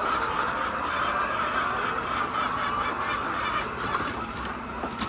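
A large flock of laying hens clucking and squawking all at once in a steady din, easing a little near the end.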